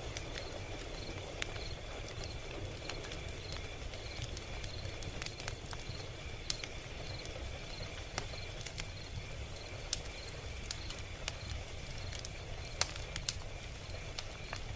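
Log fire crackling: irregular sharp pops and snaps over a steady low rumble of burning.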